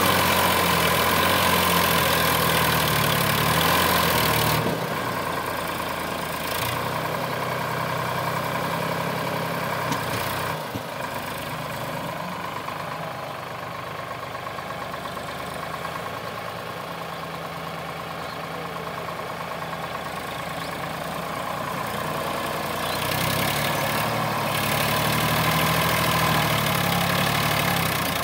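Sonalika DI 745 tractor's diesel engine running steadily. It drops quieter about four and a half seconds in and grows louder again near the end.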